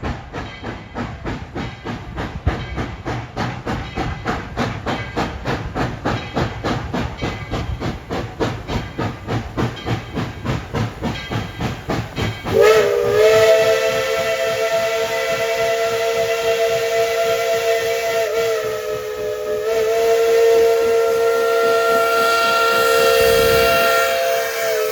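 Steam locomotive chuffing in a quick, even rhythm. About halfway through, its whistle cuts in with a long, loud blast of several notes at once, held with one short break.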